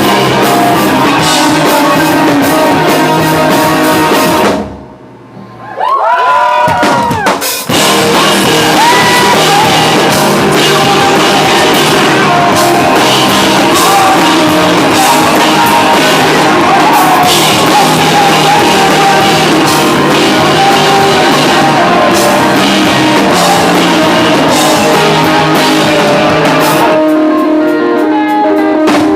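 Live rock band playing loud, with drum kit, distorted guitar and singing. About five seconds in the band cuts out and a lone note slides up and down before the full band comes crashing back in; near the end the drums and low end drop out for a couple of seconds.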